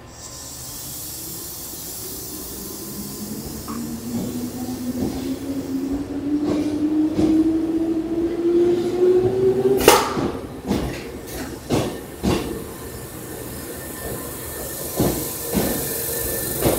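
Hankyu electric train pulling away. Its motor hum climbs steadily in pitch as it gathers speed and cuts off about ten seconds in. Then comes a run of sharp wheel clacks over the rail joints, several about half a second apart and a few more near the end.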